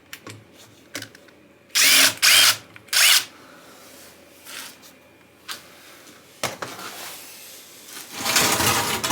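Handheld electric power tool, like a drill, run in short bursts with a motor whine: three quick bursts about two seconds in, a shorter one a little later, and a longer run near the end.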